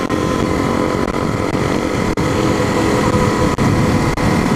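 Dual-sport motorcycle engine running steadily while riding, heard from on the bike.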